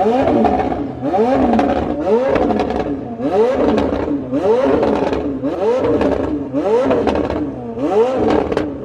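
A car engine revved over and over, its pitch climbing and dropping about once a second, with crackle at the top of each rev.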